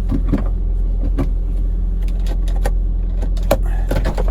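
Audi TT Mk1's engine idling steadily, with scattered light clicks and taps.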